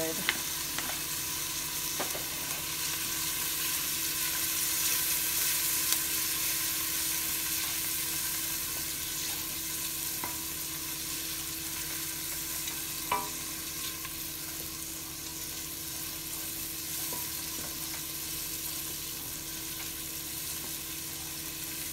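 Diced onions, scallions and curry powder sizzling in hot oil in a stainless steel pot, stirred with a wooden spoon: the aromatics sweating and the curry frying into a paste. A steady high sizzle, with a few light clicks from the spoon.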